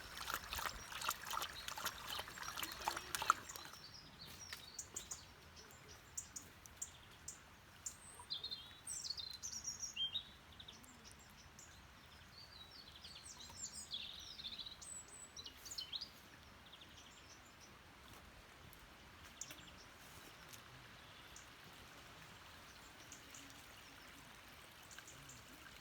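Outdoor ambience: small birds chirping in short, scattered calls for several seconds in the middle, over a faint steady hiss, with a spell of crackly ticking in the first few seconds.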